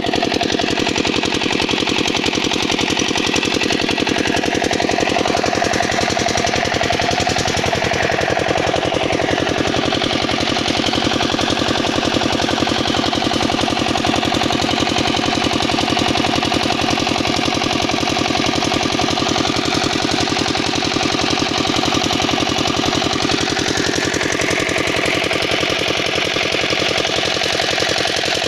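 Kirloskar 8 hp single-cylinder diesel engine running steadily, driving a water pump, with a rapid, even train of firing beats.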